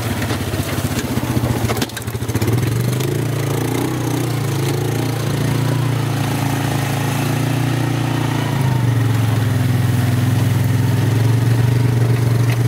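Vehicle engine running steadily, with a brief break about two seconds in and a slightly louder stretch in the second half.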